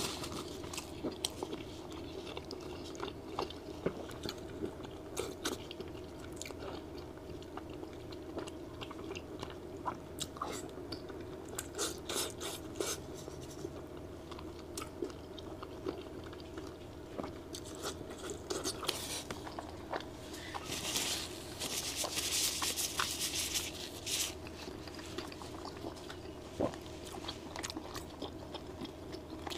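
A person chewing and biting into stringy meat close to a clip-on microphone: wet mouth clicks and smacks throughout. A louder stretch of rustling comes about two-thirds of the way through.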